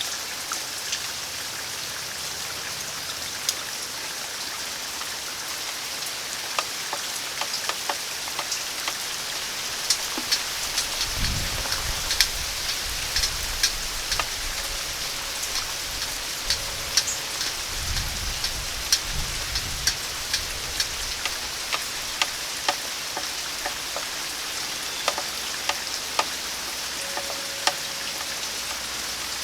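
Steady rain falling, with frequent sharp drips striking a hard surface close by. Twice near the middle, a short low rumble of wind.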